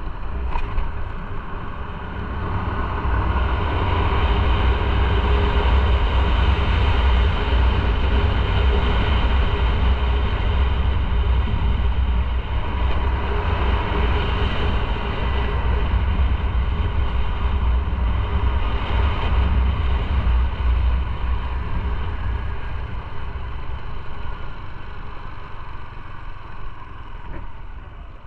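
Motorcycle on the move: engine and road noise under a heavy low wind rumble on the microphone. It grows louder about three seconds in and eases off near the end.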